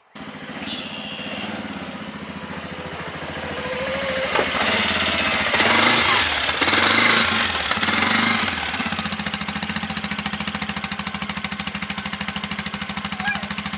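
A motor running loudly with a fast, even rattle. It starts and stops abruptly and grows louder and harsher in the middle.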